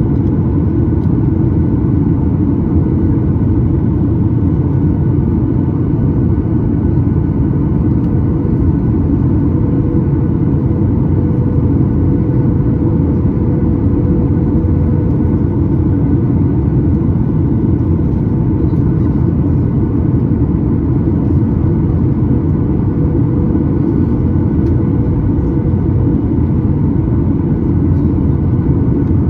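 Steady in-flight cabin noise of a Boeing 737-9 MAX: a loud, even rumble with a few faint steady tones above it.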